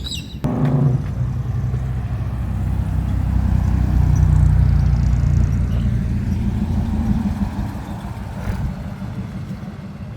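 A car engine starts abruptly about half a second in and keeps running with a low rumble. It grows louder toward the middle and then fades.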